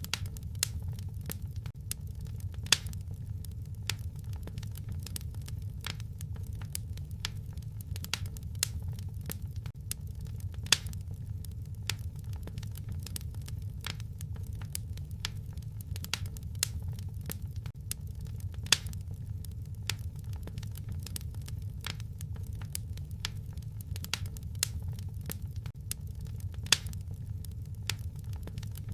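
Wood fire crackling in a fireplace: a steady low rumble with dense, irregular snaps and a few louder pops.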